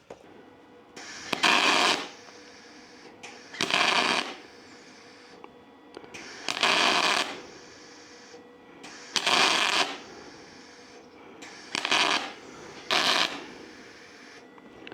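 MIG welding arc on aluminum, fed from a spool gun: six short bursts of sputtering crackle, each half a second to a second long as the trigger is pulled and released, with a faint steady hum between them.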